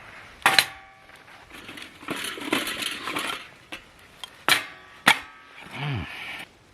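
Metal camp cooking gear being handled at a fire pit, clinking and rattling. Three sharp clinks with a brief metallic ring come about half a second in and twice near the end, with scraping and rattling between them.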